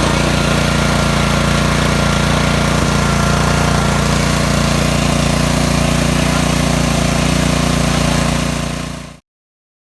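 Honda GCV190 single-cylinder engine running steadily on a pressure washer, on a test run after a new crankshaft oil seal. The sound fades out quickly about nine seconds in.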